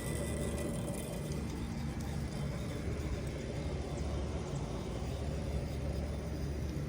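Vintage ZoneAire wall-hung heat pump running in cool mode: a steady low hum with an even rush of air.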